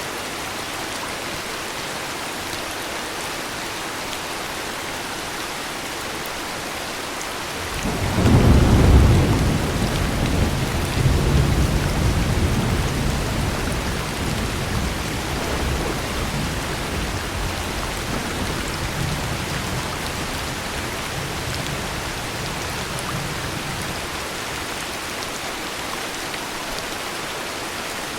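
Steady heavy rain with a long peal of thunder: the rumble breaks in about eight seconds in, is loudest a second later, swells again shortly after and slowly rolls away over the following ten seconds or so.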